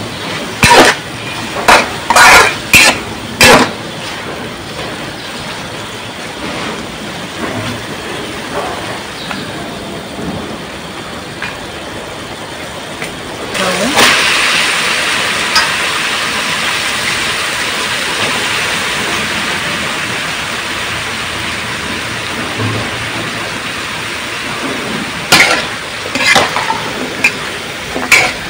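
Sliced pork frying in a metal wok, stirred with a metal spatula that scrapes and clanks against the pan, over a steady sizzle. About 14 seconds in, the sizzle jumps louder and then slowly dies down; a few more spatula strokes come near the end.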